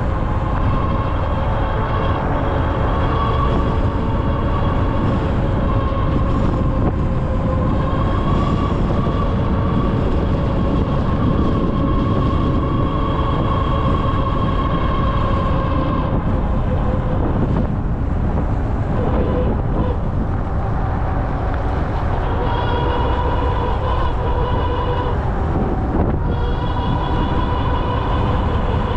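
Ariel Rider Grizzly e-bike's electric motor whining under power over a steady low rumble of wind and riding noise. The whine shifts slightly in pitch with speed, drops away for a few seconds past the middle and comes back strongly near the end.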